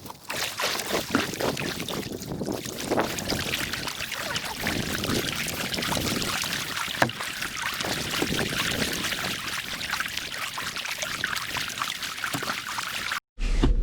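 Kayak moving through the water: irregular splashing and rushing water from the paddling and the hull.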